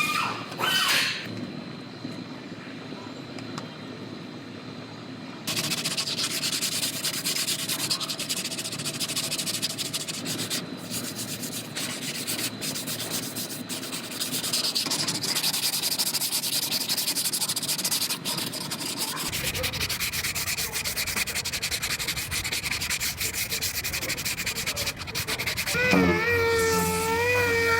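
Bodywork tool working the sheet-metal dogleg section of a Nissan Rogue's quarter panel, making a dense, steady, scratchy noise that grows louder about five seconds in. A wavering pitched tone joins near the end.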